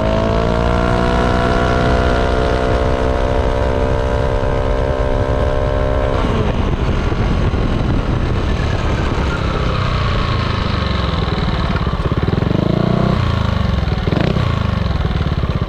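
Yamaha Aerox 155 scooter's single-cylinder engine through a ROB1 aftermarket exhaust, pulling under throttle with a steadily rising pitch. About six seconds in the throttle is closed and the note drops away, leaving the engine and rushing riding noise, with a few short rises and falls in pitch near the end.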